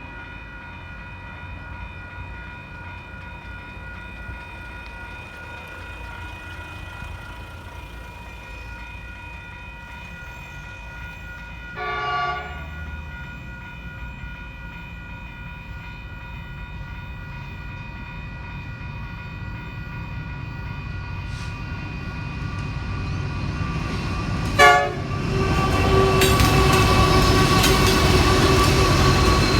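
A diesel train approaching a level crossing, its engine growing steadily louder. It sounds two short horn blasts, one about midway and a louder one a few seconds before the end. The train then passes close by with a loud rumble and clatter of wheels.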